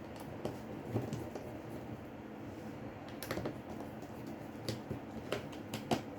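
Light, irregular clicks and taps of small tools and parts being handled while a Samsung J6 smartphone is dismantled, with a small cluster about three seconds in and the sharpest click near the end.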